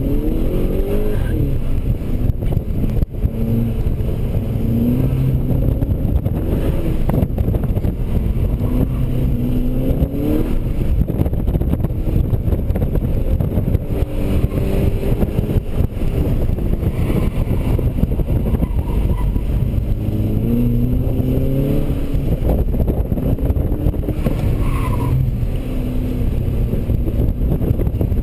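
Volkswagen Golf's engine heard from inside the cabin while it is driven hard through an autocross course, its pitch climbing under acceleration and dropping back again and again. A steady low rumble of road noise runs underneath.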